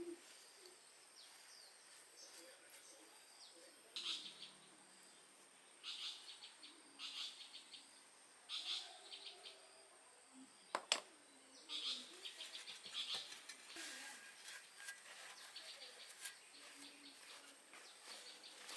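Faint bird chirps in short bursts every few seconds, with one sharp tap a little past the middle.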